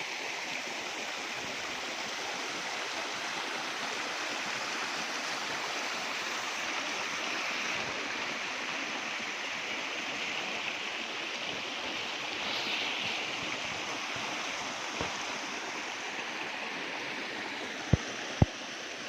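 Steady rush of flowing water, with two sharp clicks about a second before the end.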